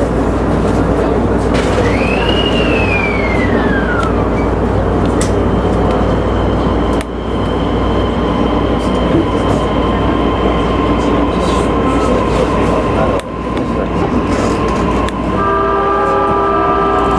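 JR Nikko Line electric local train running between stations, with a steady rumble of wheels on rail. About two seconds in there is a high squeal that rises and then falls away. Near the end a group of steady tones sounds together over the running noise.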